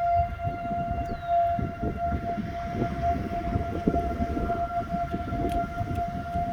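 Outdoor tornado warning siren sounding one steady, unbroken tone, with uneven low rumbling noise beneath it.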